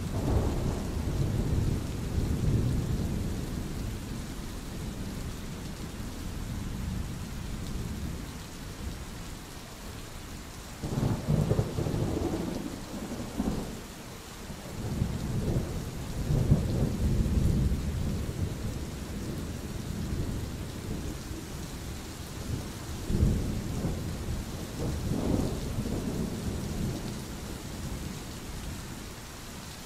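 Steady rain with rolling thunder: several low rumbles swell and fade, the strongest breaking in sharply about 11 and 23 seconds in.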